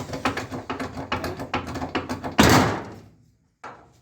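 Rapid, irregular knocks and clicks on a car's metal bodywork, then one loud heavy bang about two and a half seconds in that dies away quickly.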